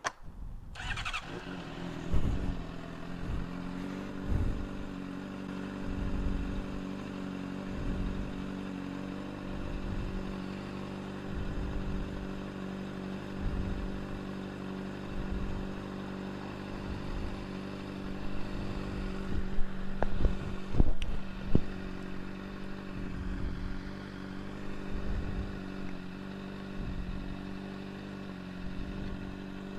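Motorcycle engine starting about a second in and then idling steadily, its level rising a little every couple of seconds, as it is run for a roadside exhaust noise check. A few sharp clicks sound about twenty seconds in.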